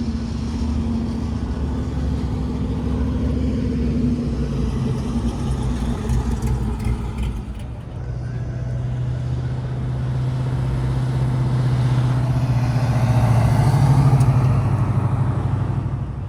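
Classic car engines running as the cars drive past one after another. A second car grows louder, passes closest near the end and then fades.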